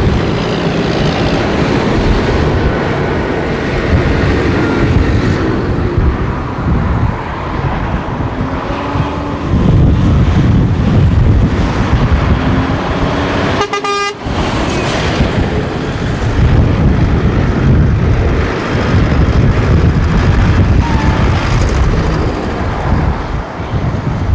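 Farm tractors driving past one after another, their diesel engines running loud and swelling as each one passes, with horns tooting.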